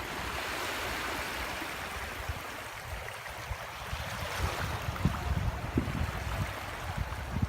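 Sea water washing and lapping at the shore in a steady rush, with a gusty low rumble of wind on the microphone underneath.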